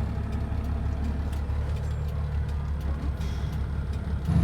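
Heavy vehicle engines running with a steady low drone, heard from inside a vehicle cab, as a fully loaded tridem log truck goes by. Near the end the engine sound gets suddenly louder.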